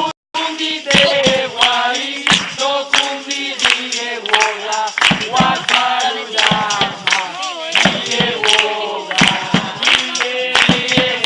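A group of voices singing together, with frequent hand claps throughout; the sound cuts out for a split second just after the start.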